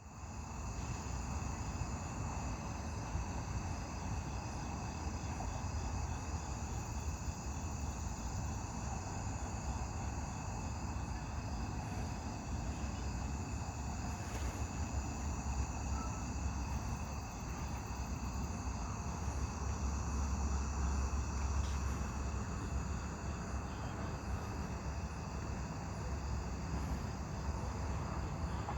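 A chorus of crickets and other insects trilling steadily at night, several high pitches at once, over a low rumble that swells briefly past the middle.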